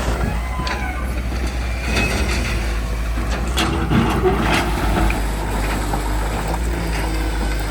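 Heavy diesel machinery running steadily, with scattered sharp knocks through the middle, typical of a backhoe loader working at a mud-loading site.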